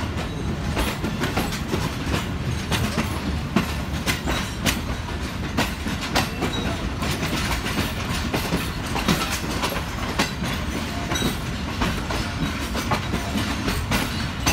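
Shalimar Express passenger coaches rolling along the track, heard from an open coach doorway: a steady rumble of the wheels with frequent, irregular clicks and clatter.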